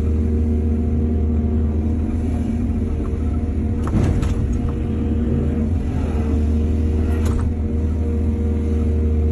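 Excavator's diesel engine running steadily under load, with a short clatter about four seconds in and another about seven seconds in.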